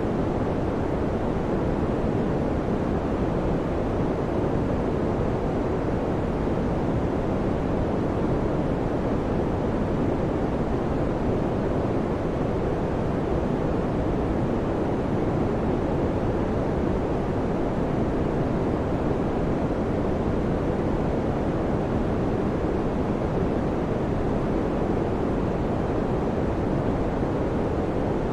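Electric fan running with a steady, even whoosh, its sound mostly low and deep, with no changes, clicks or rhythm.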